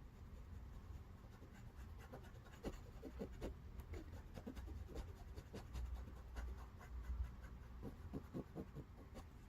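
Faint, irregular scratching and rubbing strokes of a coloring tool on paper, many short strokes in quick succession, some with a slight squeak, over a low steady hum.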